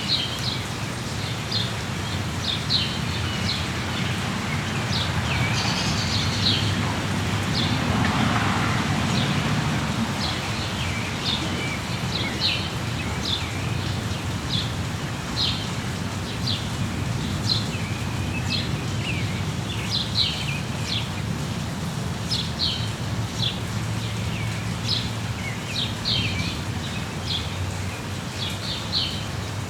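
Steady rain hiss with songbirds chirping, many short, high chirps in quick succession. About eight seconds in the noise briefly swells.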